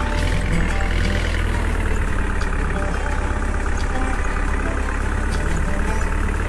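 Swaraj tractor's diesel engine running steadily, pulling a plough through a field.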